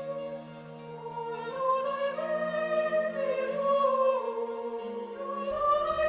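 Voices singing a slow choral piece in several parts, holding long notes with a slight waver and moving stepwise; a lower part comes in about five and a half seconds in.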